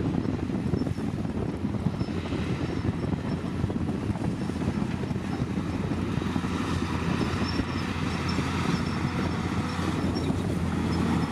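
Diesel engine of heavy earthmoving machinery running steadily under load, a dense low rumble.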